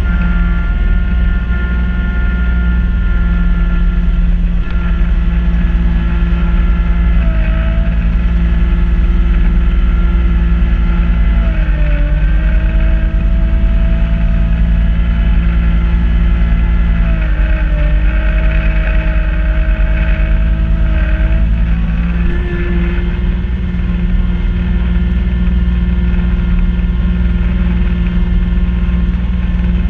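Kubota B2650 compact tractor's diesel engine running steadily while driving a front-mount snow blower. Its pitch dips briefly a few times.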